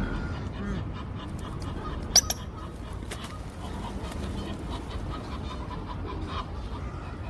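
Waterbirds calling, coots among them: short scattered calls over a steady low background rumble, with one sharp, loud, high-pitched call about two seconds in.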